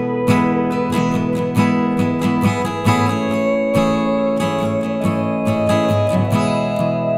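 Background music: a strummed acoustic guitar playing steadily, several strokes a second.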